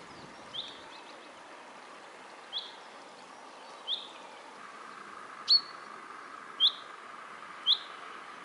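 A small bird repeating one short, high chirp six times, one to two seconds apart, the later calls louder. Under it a faint, steady rush of running stream water.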